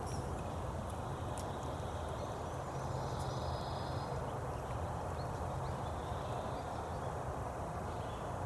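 Steady outdoor ambience: an even rushing hiss with a low hum under it, a few faint clicks, and a brief faint high tone about three seconds in.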